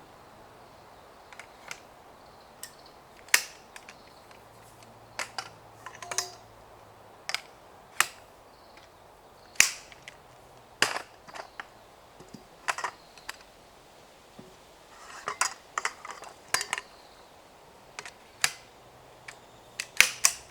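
Irregular sharp clicks and knocks, one every second or so, with a quicker cluster about three-quarters of the way through.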